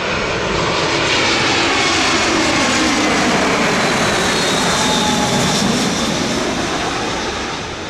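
Jet aircraft passing overhead: a loud, steady rush of engine noise with a whine slowly falling in pitch as it goes by.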